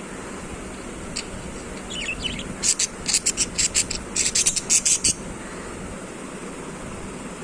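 Budgie giving a quick run of sharp, high-pitched chirps, about four or five a second, starting about two seconds in and stopping about three seconds later.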